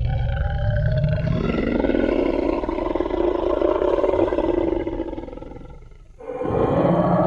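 T. rex roar sound effect: one long, deep roar that fades away about six seconds in, followed at once by the start of a second roar.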